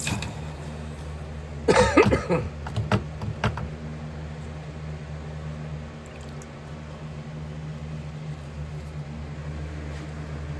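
Steady low hum of a running electric melting furnace. About two seconds in there is a brief loud cough, followed by a few light clicks.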